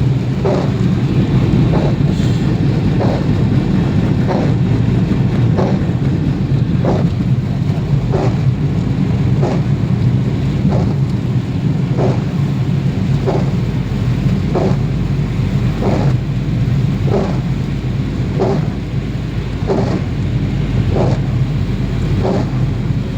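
Vehicle cabin noise on a rainy day: a steady low rumble from the engine and road, with rain. A short, regular sound repeats about every 1.3 seconds.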